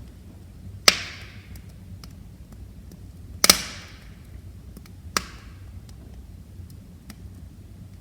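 Wood fire crackling in a fireplace: three loud snaps spread over the first two-thirds, the middle one a quick double, each trailing off in a short hiss. Under them run faint scattered ticks and a low steady rumble.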